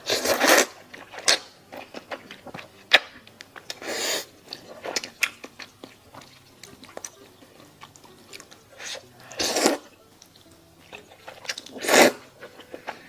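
Close-miked eating: four loud bites about half a second each, with chewing and many small wet mouth clicks between them.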